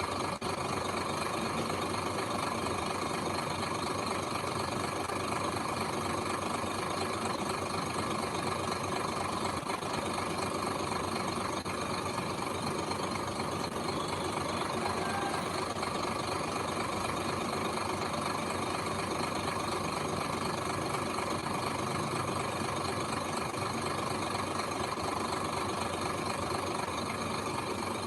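Heavy machinery diesel engine running steadily at idle, with no change in pace.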